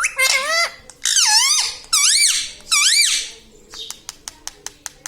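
A pet parrot gives a short falling call, then three loud, shrill, swooping calls, each dipping and rising in pitch. Quick runs of sharp clicks come before and after the calls.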